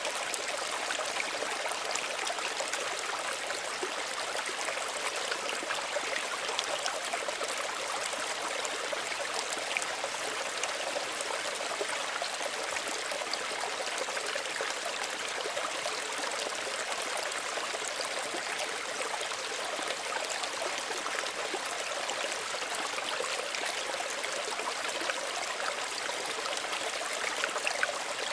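Small stream running steadily over stones, a continuous gentle rush of water with fine trickling and splashing.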